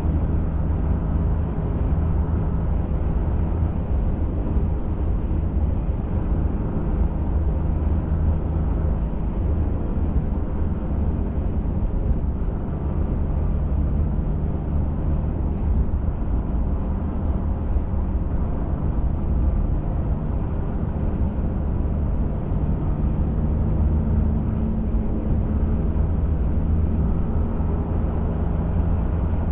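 Pickup truck driving at a steady pace: continuous engine hum and road noise heard from inside the cab, with the engine note shifting slightly now and then.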